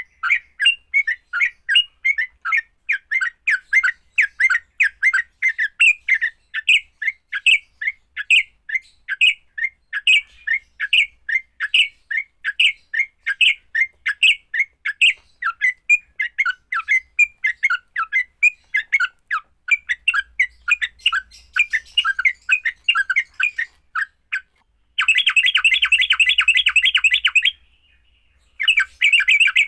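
Yellow-vented bulbul (trucukan) giving its agitated fighting call: a fast run of short, harsh chattering notes, two to three a second. Near the end it changes to a dense unbroken chatter, with one short break.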